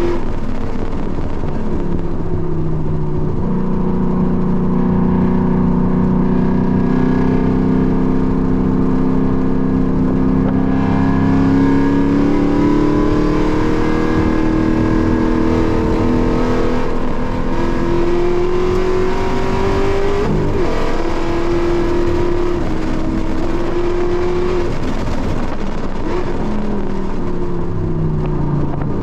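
Car engine heard from inside the cabin at racing speed, pulling hard under full throttle with a sharp drop in pitch about three seconds in as it shifts up, then a long steady rise. Near the end the pitch falls in steps as it brakes and downshifts.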